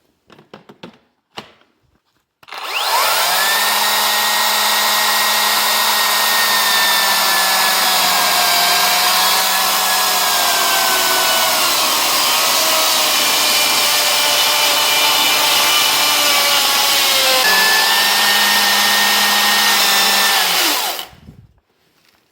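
Electric power saw motor starting up and running steadily for about eighteen seconds with a high whine. In the middle its pitch sags as it bogs down cutting wood, and it rises back near the end before it cuts off.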